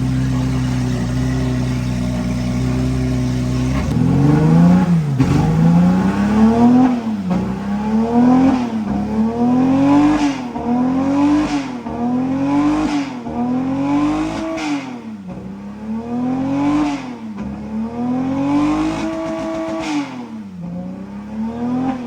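A car engine held at a steady speed, then revved again and again about four seconds in. There are about ten blips, each climbing in pitch and dropping back, one every second and a half to two seconds.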